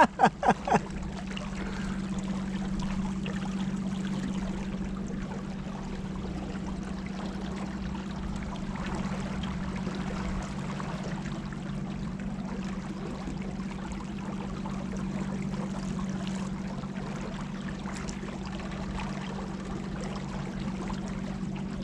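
Water rushing and trickling along a boat on the river, with a steady low hum running underneath.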